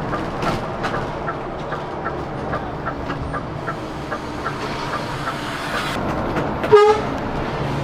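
Coach running along the road with a steady road and engine noise and an even ticking about three times a second. Near the end a short, high-pitched toot with overtones stands out as the loudest sound.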